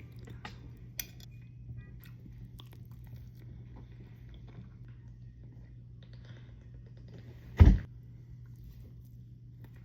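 Close-up mouth sounds of someone chewing a soft cinnamon roll, with small wet clicks, over a steady low hum. About three-quarters of the way through comes one loud, low thump.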